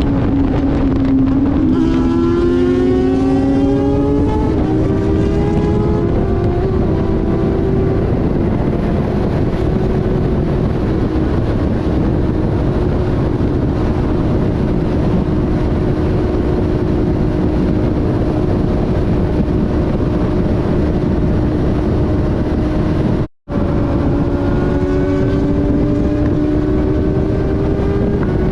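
Inline-four sport bike engines at highway speed, heavily buffeted by wind rushing over the microphone. The engine note climbs in pitch for the first few seconds and holds steady while cruising. It cuts out briefly near the end, then rises again.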